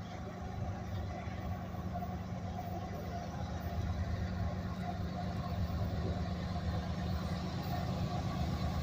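Union Pacific GE diesel locomotives working under power while pulling a tank train, a steady low engine rumble that grows gradually louder.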